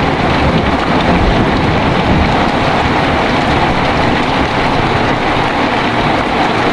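Heavy rain falling steadily, a dense even hiss, with the low rumble of thunder dying away over the first few seconds.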